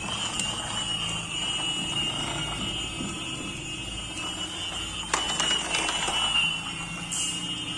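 Battery-powered toy trains running on a plastic track, their small electric motors and gearboxes giving a steady high whine over a low rattling hum, with a sharp click about five seconds in.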